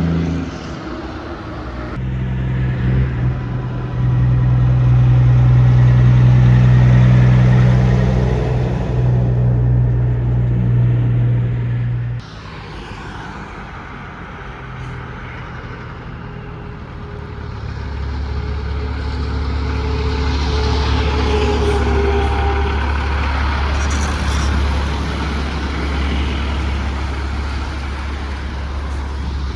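Heavy trucks' engines running as they drive past: a loud steady engine drone that cuts off abruptly about twelve seconds in, then a deeper engine hum building again, with a faint rising whine.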